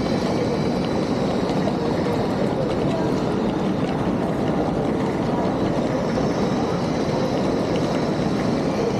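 Steady din of a crowded railway station hall at a rush, with voices of many people blending into the noise.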